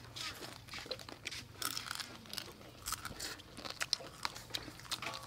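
People biting and chewing crunchy raw vegetables such as cucumber, with many short, irregular crunches and clicks.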